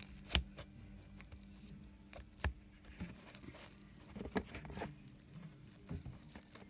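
Slime being handled and pressed into a jar, with irregular sticky clicks and pops.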